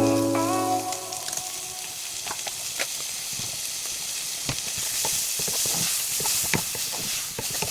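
Food sizzling and frying in a pan, a steady hiss with scattered crackles and pops that grows a little louder around the middle.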